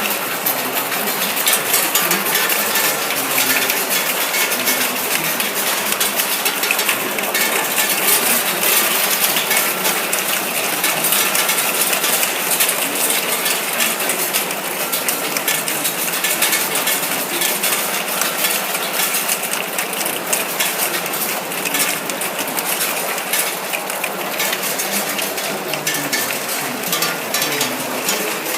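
Plastic cap lining machine running: a steady, dense clatter of plastic caps and rapid mechanical clicking.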